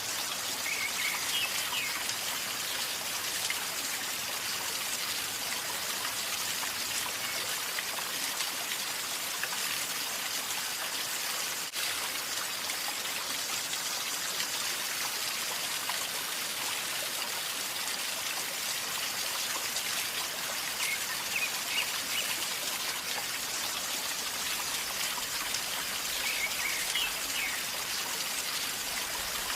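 River flowing steadily over stones, a constant gurgling babble of water, with a few faint short chirps about a second in and twice near the end.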